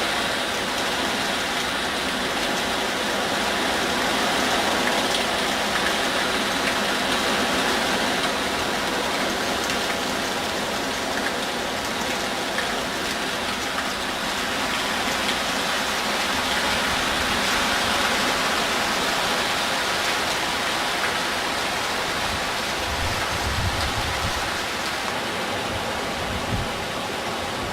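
Heavy typhoon rain falling steadily as an even hiss, with low wind buffeting on the microphone near the end.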